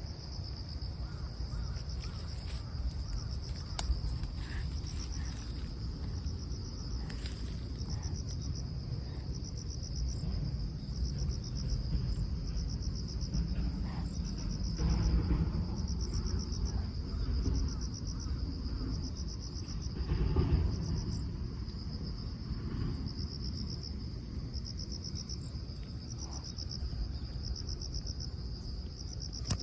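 Insects chirping in a steady, evenly pulsed chorus of high trills. A low rumble runs underneath and swells louder twice, around the middle and about two-thirds of the way through.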